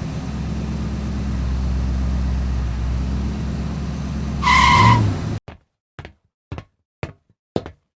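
A small vehicle engine hums steadily at a low pitch, and a short beep sounds about four and a half seconds in. The sound then cuts out, leaving a string of about six light clicks roughly half a second apart.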